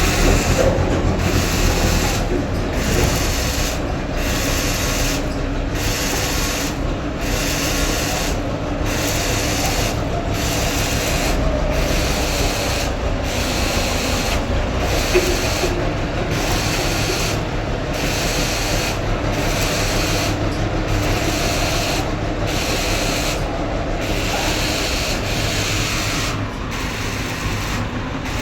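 JCB 3DX Plus backhoe loader's diesel engine running steadily, a low rumble under a constant noisy din.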